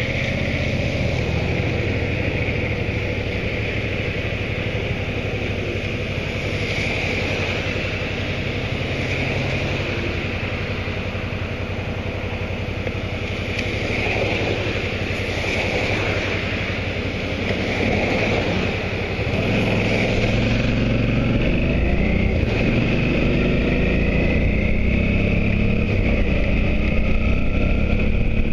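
Motorcycle engine running while under way, with steady wind and road noise. About two-thirds of the way through the engine note climbs and gets louder as the bike accelerates.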